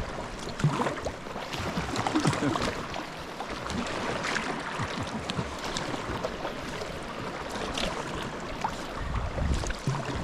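Water sloshing and splashing around sea kayaks as they are paddled, in irregular small splashes over a steady wash of sea and wind.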